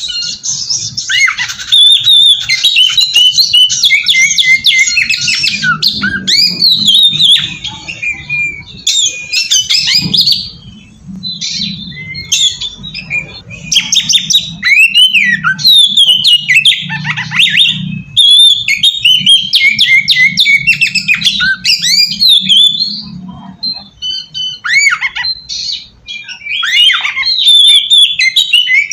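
Oriental magpie-robin (kacer) singing a loud, fast, varied song of whistles, sweeping notes and harsh chattering phrases, in long runs with brief pauses.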